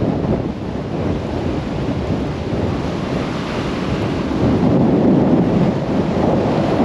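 Storm-force wind buffeting the microphone, with heavy rain: a dense, low rumbling noise that eases about half a second in and builds again around five seconds as the gusts come and go.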